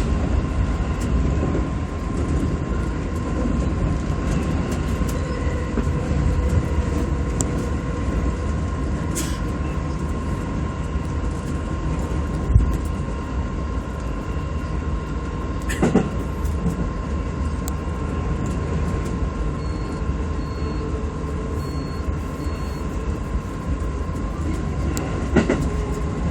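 Electric commuter train running along the line, heard from inside the front car: a steady rumble of wheels on rail with a constant hum, and an occasional sharp click or knock from the track a few times. A few short high beeps sound about twenty seconds in.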